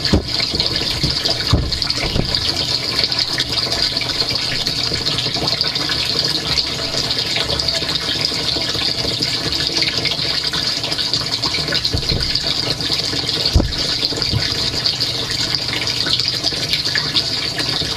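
Dishwasher spraying water, heard from inside the wash tub as a steady dense rush. A few dull knocks come through, about 2 seconds in and again around 12 and 13 seconds.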